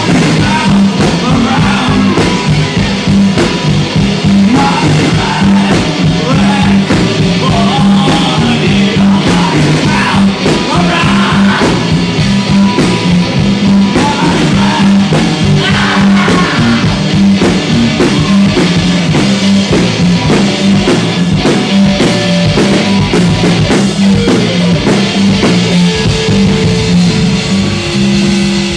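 Live rock band playing an instrumental stretch: electric guitar, bass and drum kit at full volume with a steady beat. It drops back briefly near the end.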